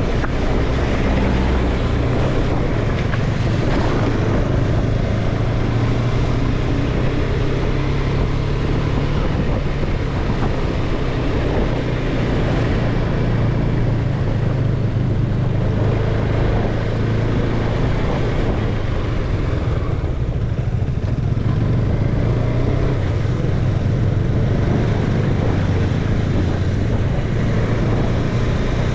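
Motorcycle engine running steadily at a constant pitch while riding, under a continuous rush of wind and road noise.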